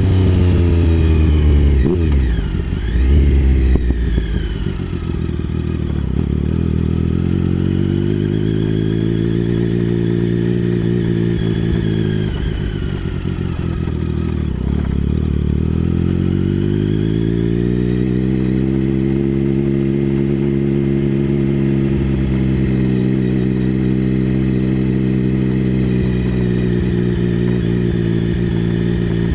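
Triumph Speed Triple 1050's inline three-cylinder engine through a Mivv aftermarket exhaust, under way on the road. Engine speed drops and rises quickly in the first few seconds, falls and climbs again around the middle, then holds steady near the end.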